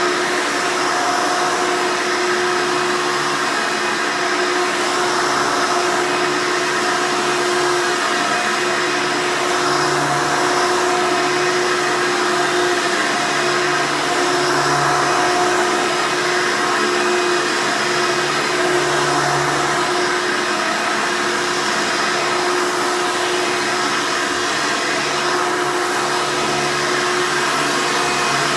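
Hoover Elite upright vacuum cleaner running steadily and loudly: an even motor and airflow noise with a constant whine.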